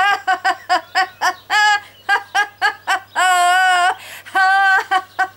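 A woman laughing in quick, high-pitched bursts, several a second, with two longer drawn-out high laughs partway through, over a steady low hum.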